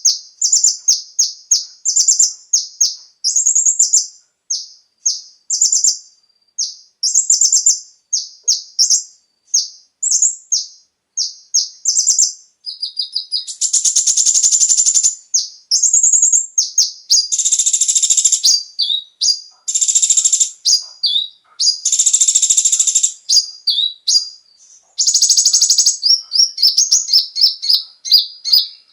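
Kolibri ninja (konin) sunbird singing a fast, high-pitched song of short sharp chirps, broken by several longer buzzy trills of a second or two, most of them in the second half.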